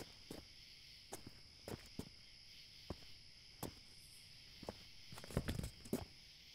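A steady night chorus of crickets, with scattered footsteps or light knocks on concrete at an uneven pace. A quick cluster of louder knocks and rustles comes about five to six seconds in.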